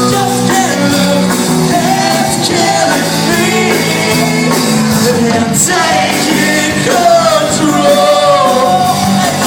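Live rock band playing with a lead vocal singing over sustained chords.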